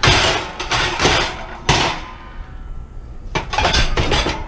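Scrap metal being handled and tossed, with a few clattering knocks and scrapes, the loudest three in the first two seconds and a scattered cluster near the end.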